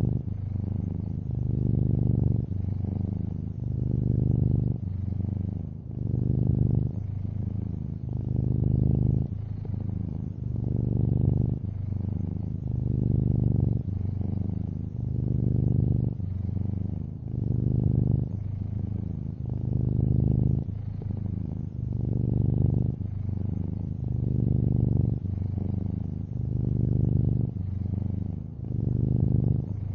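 Domestic cat purring steadily and low, swelling and easing in a regular rhythm about every two seconds as it breathes in and out.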